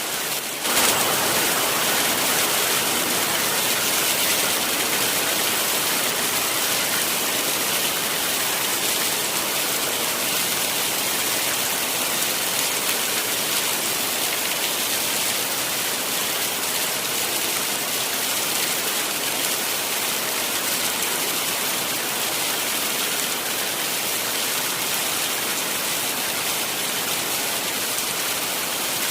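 Heavy rain falling steadily, as a dense even hiss. It becomes a little louder and fuller about a second in.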